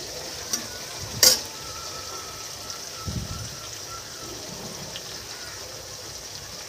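Potato pieces frying in hot oil in a steel kadai with a steady sizzle. A metal spatula stirs them, clinking sharply against the pan once about a second in, with a few lighter scrapes and taps after.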